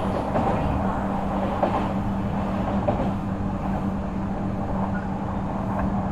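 Running noise heard from inside an Odakyu 3000 series motor car, which has Mitsubishi IGBT VVVF control and 190 kW totally enclosed traction motors. Wheels rumble steadily on the rails under a steady hum, with a few light knocks.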